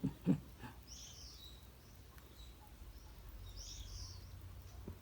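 Birds chirping in short calls, twice, over a low steady outdoor background, with two brief soft thumps just at the start.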